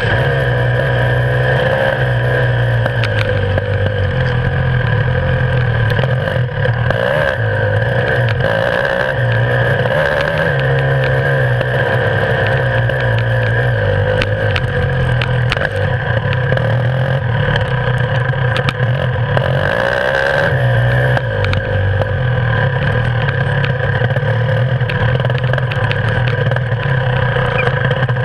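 Beta 300 RR single-cylinder two-stroke enduro motorcycle engine running continuously under riding load. Its pitch rises and falls again and again as the throttle is opened and rolled off, with occasional sharp clicks and knocks.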